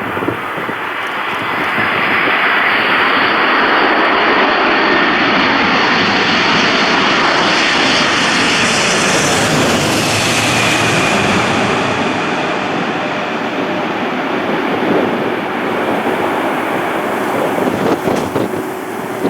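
Jet airliner passing low overhead: steady engine noise that builds, is loudest and brightest about halfway through, then slowly fades.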